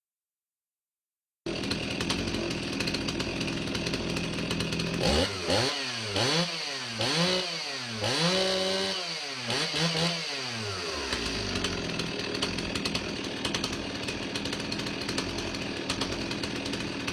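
Stihl 034 two-stroke chainsaw starting up and idling, revved up and back down about five times in quick succession, then settling back to a steady idle.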